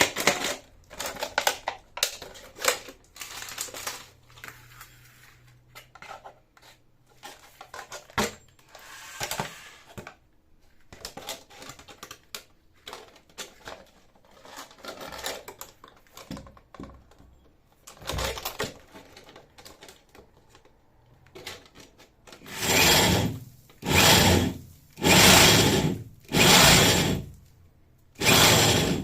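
Scattered knocks and rattles of handling, then about five short, loud bursts of a power drill working into concrete, each about a second long with brief pauses between.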